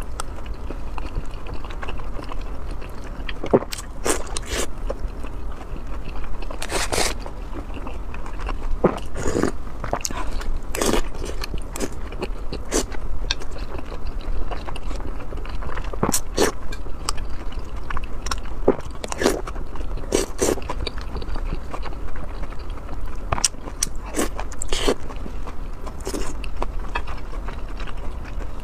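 Close-miked eating sounds: a person biting and chewing food, with irregular short clicky mouth sounds every second or so.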